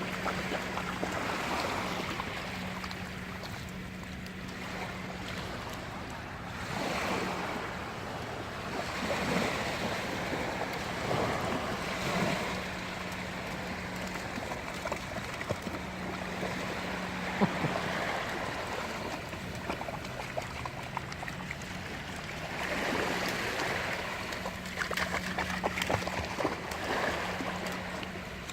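Waves washing in and out, swelling and falling every few seconds, with wind buffeting the microphone and a steady low hum underneath.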